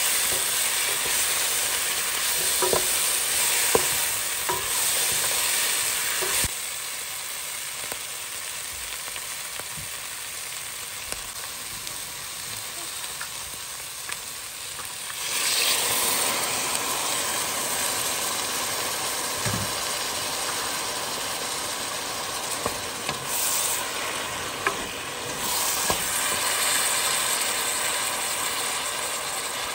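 Chicken, vegetables and oats sizzling in a hot pot while a wooden spoon stirs them, with a few sharp knocks of the spoon. About halfway through, water goes into the pot and the sizzling turns suddenly louder and carries on.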